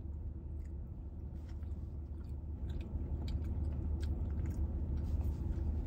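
A person chewing a mouthful of sauce-covered burrito, with faint wet clicks now and then over a steady low hum.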